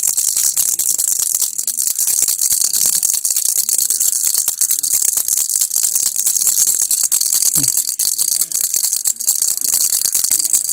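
Baby rattle (kilukki) shaken continuously: a steady, dense rattle of small beads inside a hollow toy, high and hissy, with no break.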